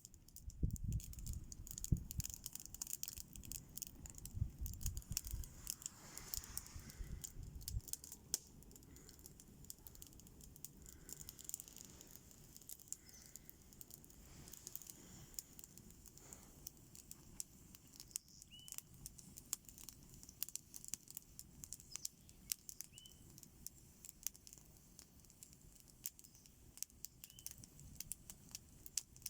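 Campfire crackling, with frequent irregular sharp pops and snaps. A low rumble runs under it for the first several seconds, and three faint short chirps come in the second half.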